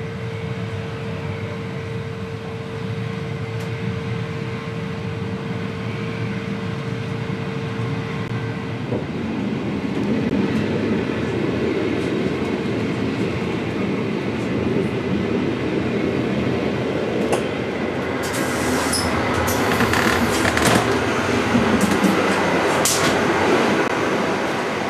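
Passenger train running on the track. A steady hum stops about nine seconds in, then the rolling noise grows louder, with high squeals and clicks in the last several seconds.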